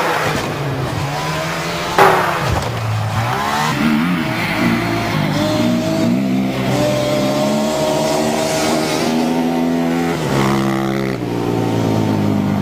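A vehicle engine revving hard and running at high revs, its pitch rising and falling, with a loud thump about two seconds in.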